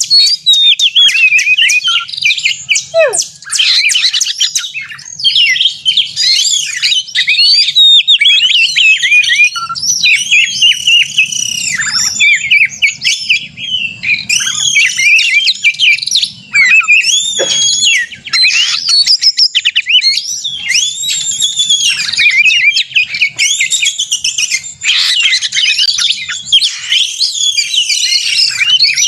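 Oriental magpie-robin (kacer) in full, excited song: a fast, almost unbroken stream of varied whistles, quick rattling trills and harsh chatter, with only brief pauses. This is the aggressive 'narung' fighting-mode song used as a bait call to provoke other kacer into singing.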